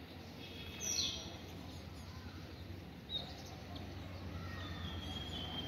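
Small birds calling: a sharp high chirp falling in pitch about a second in, another about three seconds in, and a longer held whistle near the end, over a steady low background hum.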